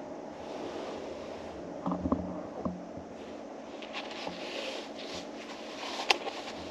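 Steady low hum of a car interior, with a few soft rustles and knocks from handling inside the cabin, and the loudest, a sharp click, about six seconds in.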